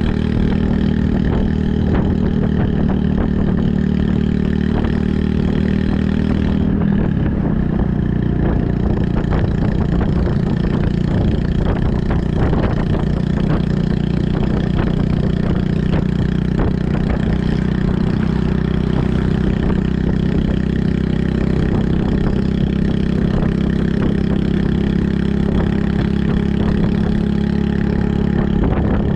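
Honda Super Cub 110's small single-cylinder four-stroke engine running under way through a Kitaco mini Cabton aftermarket muffler, a steady exhaust note whose pitch shifts about seven seconds in.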